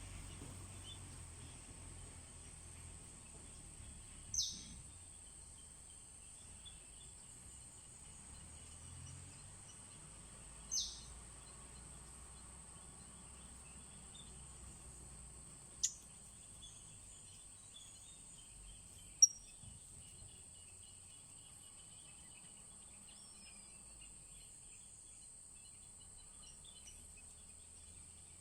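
Forest ambience: a steady high-pitched insect drone, with two short, sharp bird chirps falling in pitch about four and eleven seconds in, and two sharp clicks later, the second the loudest sound here.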